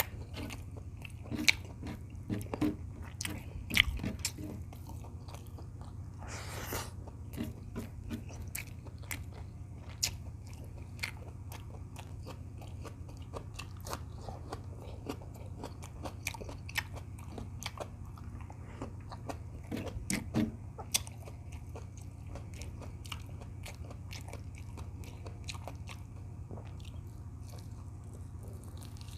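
Close-up chewing and biting of a person eating beef tocino with rice: many small wet mouth clicks, irregular throughout, over a steady low hum. A brief rush of noise comes about six and a half seconds in.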